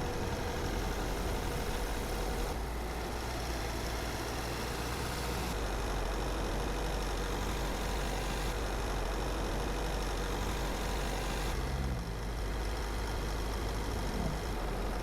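Car driving steadily, its engine and tyres on the road making an even, low rumble with a wash of road noise.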